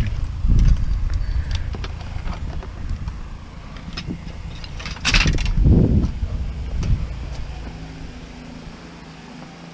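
Scrap metal pieces being handled and shifted, with scattered light clicks and knocks and a louder knock about five seconds in.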